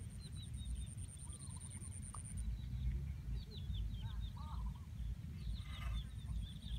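Outdoor ambience with a constant low rumble, over which small birds chirp in quick, short high notes. A steady, pulsing high-pitched insect-like tone stops about two seconds in and returns near the end.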